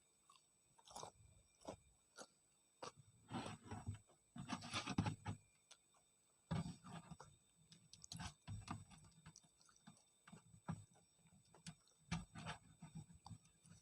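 A person chewing tempe mendoan, soft battered fried tempeh, in irregular wet chewing bouts with mouth clicks, loudest a few seconds in.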